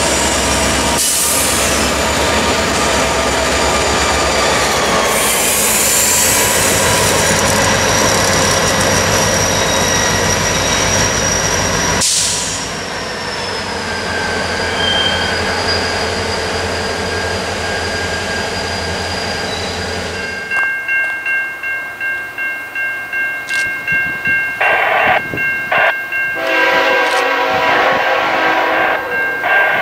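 Diesel locomotives of a freight train running past close by, engines working, with a steady high wheel squeal over the rail noise. Then a grade-crossing bell rings in a regular pulse, and a train horn sounds two blasts near the end, the second one long.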